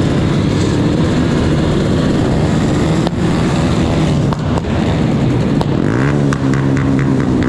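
Motorcycle engine running under way, its pitch wavering and then climbing and holding steady near the end. A quick series of sharp ticks sounds over it near the end.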